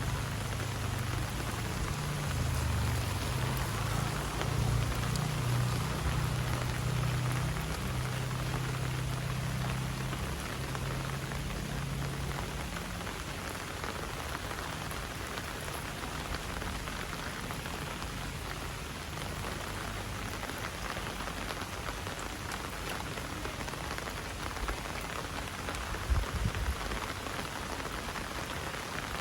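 Heavy rain falling steadily, an even hiss of drops on surfaces. A low rumble sits underneath for roughly the first half, and a short low thump comes near the end.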